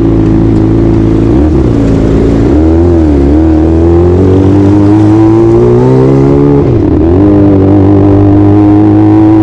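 Kawasaki ZX-25R's 250 cc inline-four engine running under way at fairly high revs. Its pitch dips briefly three times, about one and a half, three and seven seconds in, as the throttle is eased off and opened again, and then climbs slowly near the end.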